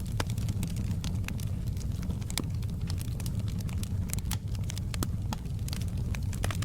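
Log fire burning in a fireplace: a steady low rumble of the flames with frequent sharp crackles and pops at irregular intervals.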